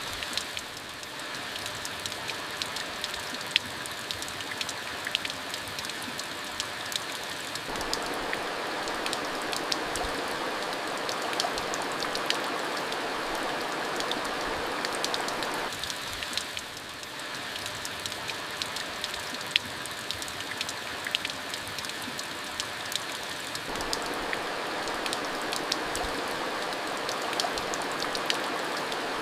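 Steady rain falling, with many sharp drips and splats of drops hitting a surface; the patter thickens and eases about every eight seconds.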